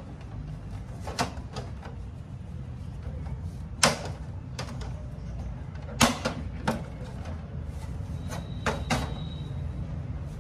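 Several sharp knocks and clicks spaced a second or two apart, as of photocopier panels and parts being handled, over a steady low rumble.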